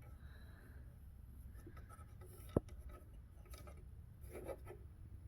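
Faint rubbing and handling as thread is guided through a sewing machine's thread guides, with one sharp click about two and a half seconds in, over a low steady hum.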